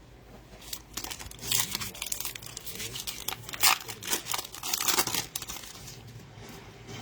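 Plastic trading-card pack wrapper crinkling and being torn open, a run of irregular crackles over several seconds.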